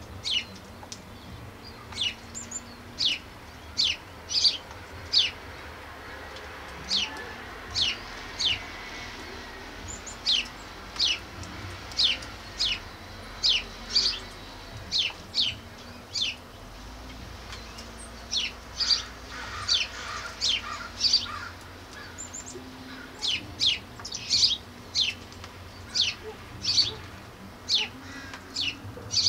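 A small bird calling over and over with short, sharp chirps, each a quick downward-sliding note, about one or two a second with a few brief pauses.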